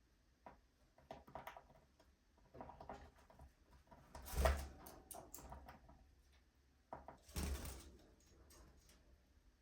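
Faint scattered rustles and knocks of budgies moving about their cage, with two louder bumps, about four and a half and seven and a half seconds in; no clear chirps.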